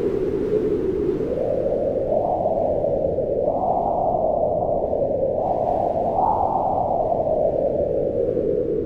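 Wind blowing in slow gusts: a steady rush with a hollow tone that rises and falls in pitch, rising highest about halfway through and again about two-thirds of the way in.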